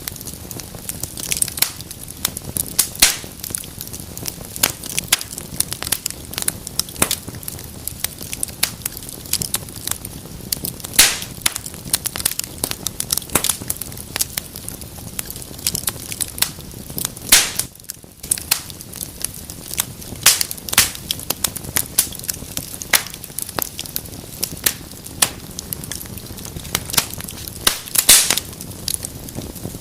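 Wood fire burning in a fireplace, crackling with frequent irregular sharp pops and snaps over a steady hiss of flame.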